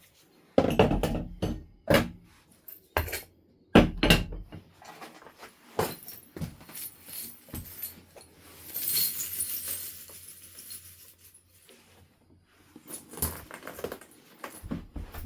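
Flintknapping: irregular sharp clicks and knocks of stone being struck and stone flakes clinking, with a stretch of gritty scraping about nine seconds in.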